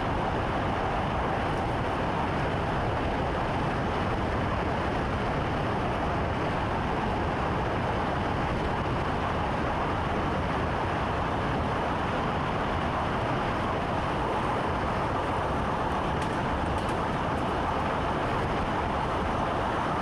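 Steady running noise of a moving train heard inside the driver's cab, an even rumble and rush with no distinct clicks or signals.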